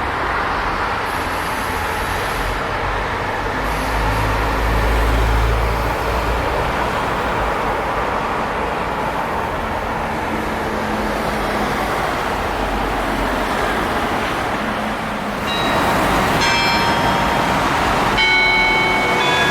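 Steady engine and road noise of a moving tour bus heard from inside. Several ringing tones at different pitches come in near the end.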